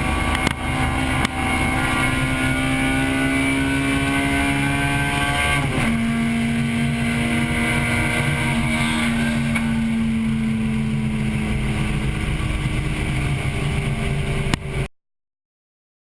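1998 Acura Integra Type-R's 1.8-litre four-cylinder VTEC engine heard from inside the car at speed, its pitch creeping up and then dropping abruptly about six seconds in before easing slowly lower. The sound cuts off suddenly near the end.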